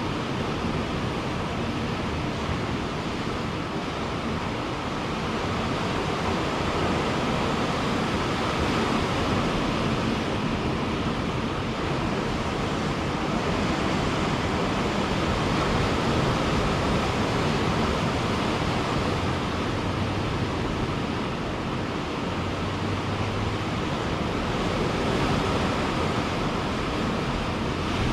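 Ocean surf breaking and washing on a beach, a continuous rushing roar with slow gentle swells in loudness.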